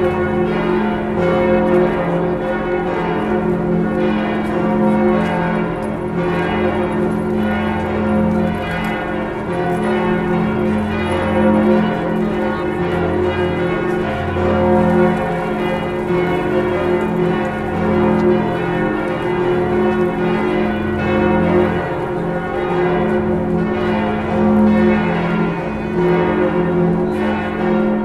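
All the bells of Notre-Dame Cathedral ringing together in a dense, continuous peal, rung to mark the start of Mass. Underneath, the deep tone of Emmanuel, the 13-ton bourdon bell, swells and fades in a slow repeating rhythm.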